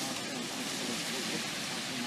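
Steady hiss of rain falling during a thunderstorm, with no thunderclap.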